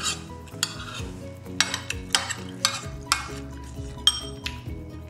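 Mouth-close chewing of crunchy soup vegetables, about two crunches a second. About four seconds in, a spoon clinks against the ceramic soup bowl. Soft background music plays underneath.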